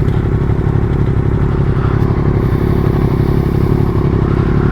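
Sport motorcycle engine running at a steady cruising speed during a ride, its pitch holding even with no revving or gear changes.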